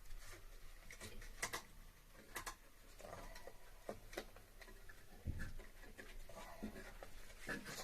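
Irregular light clicks, taps and short rustles of hands working on air-conditioner piping and its wrapping, with no steady machine sound.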